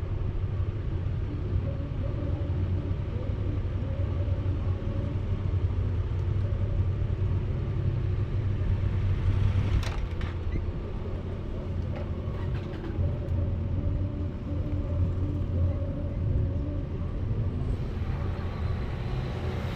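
Car engine and road noise while driving: a steady low hum, with a single click about ten seconds in.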